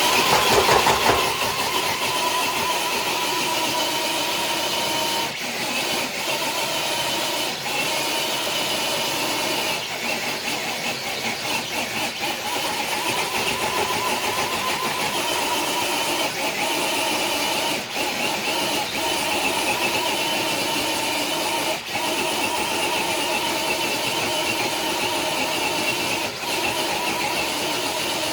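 Traxxas TRX-4 Bronco RC truck's electric motor and geared drivetrain whining under load while it drags a weighted dead sled across concrete, with the sled scraping along. It starts abruptly and then runs steadily, the whine wavering slightly with speed.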